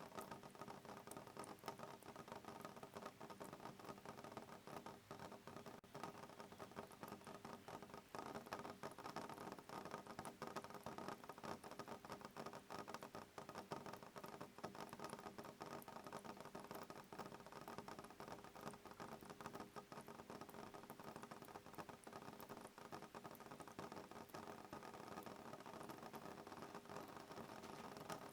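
Soft rain pattering on a window pane: a dense, even spray of light drop ticks, without thunder.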